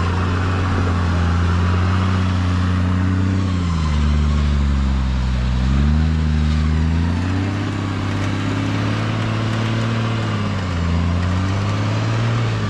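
Toyota LandCruiser 80 Series engine running at low speed as the four-wheel drive crawls over a steep, rocky track. The revs drop about four seconds in, pick up again a couple of seconds later, and dip and rise once more near the end.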